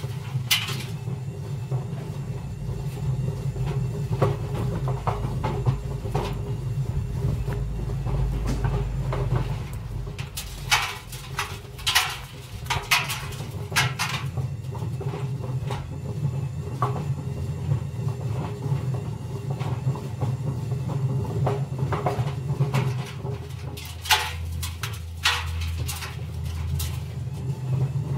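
Indesit washing machine running with heavy bricks in its drum: a steady low rumble from the motor and drum, with repeated bangs and clatters as the bricks knock around inside. The low hum shifts in pitch a couple of times as the drum speed changes.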